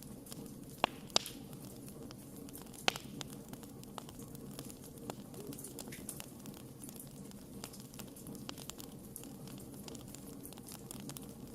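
Wood campfire burning: a steady low rush of flame with frequent sharp crackles and pops from the burning wood, three louder pops within the first three seconds.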